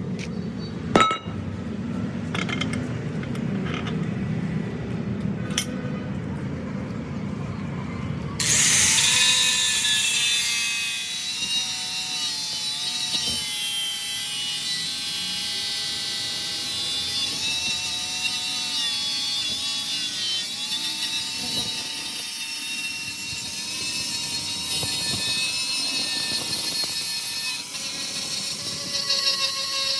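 A power tool working metal. A low rumble with a few sharp knocks gives way, about eight seconds in, to a sudden loud, hissing cutting sound with steady whining tones that goes on.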